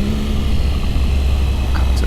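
Motorcycle engine running steadily while riding, a constant low drone under wind and road noise.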